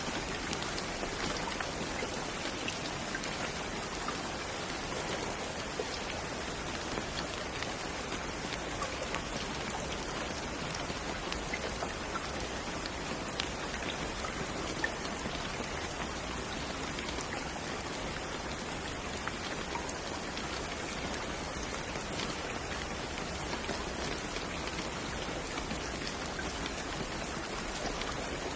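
Steady rain falling, a dense even hiss with individual drops pattering on a surface.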